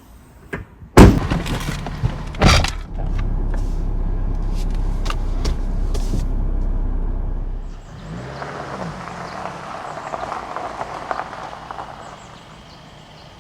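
Car sounds: two heavy thuds, then a steady low rumble that drops away about eight seconds in, followed by a lighter rustling hiss.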